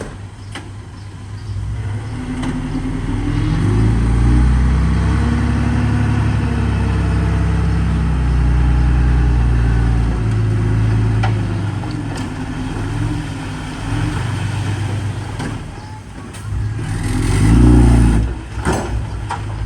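Heavy diesel machinery engine revving up about two seconds in and working hard, its pitch shifting. It revs up again near the end, with a few metallic clanks.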